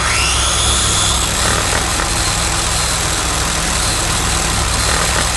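Heavy machine's engine running steadily with a low, even hum.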